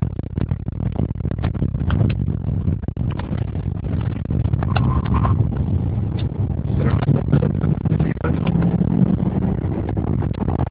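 Porsche Cayenne Turbo's twin-turbocharged V8 running while the car is driven, a steady low drone that swells briefly about eight seconds in, with many short clicks over it.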